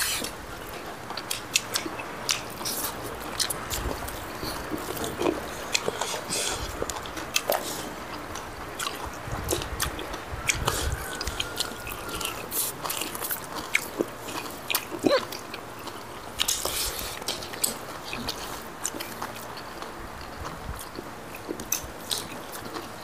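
Close-up eating sounds: several people chewing chicken with rice, with frequent wet lip smacks and small crunches that come in irregular short clicks.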